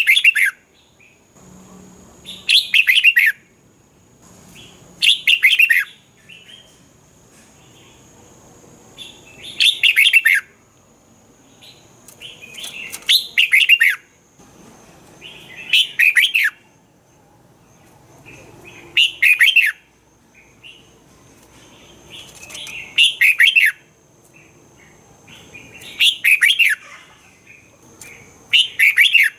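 Red-whiskered bulbul singing: short, bright, warbling phrases, about ten of them, repeated every few seconds. A faint steady high-pitched tone sits underneath.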